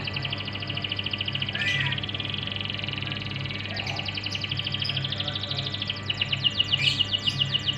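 Domestic canary singing: a continuous song of rapid trills, each made of many quick repeated notes, turning louder and sharper about six seconds in. This is the kind of canary song played to a young, untrained canary to stir it into singing. A faint low pulsing hum runs underneath.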